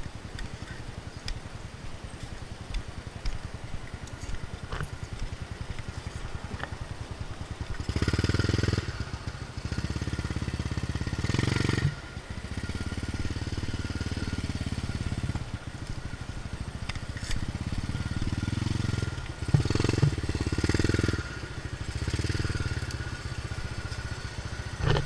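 Motorcycle engine running while riding, with louder stretches of a second or two every few seconds.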